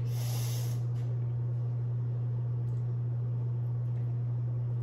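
A steady low hum, with a short hiss in the first second and a few faint ticks.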